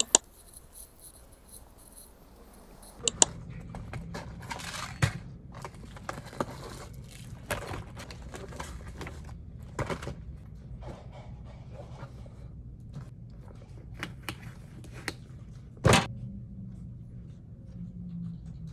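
Objects being handled: scattered clicks, knocks and brief scraping or rustling over a steady low hum, with one loud knock near the end.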